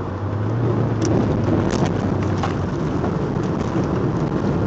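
Audi TT 1.8 quattro's turbocharged four-cylinder engine heard from inside the cabin, getting louder and slightly higher in pitch about a third of a second in as the car pulls through a corner. Steady road and tyre noise runs under it, with a scatter of sharp knocks and rattles.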